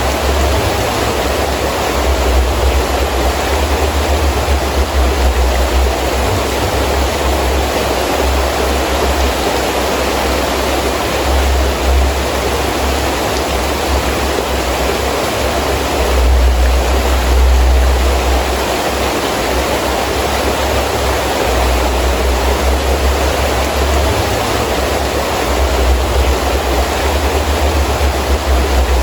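Heavy rain falling steadily in a windy storm, with a low rumble of wind that swells and fades in gusts, strongest a little past the middle.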